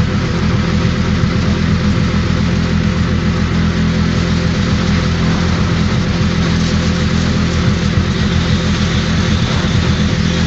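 Pressure washer's engine running steadily under load, with the even hiss of the high-pressure water spray.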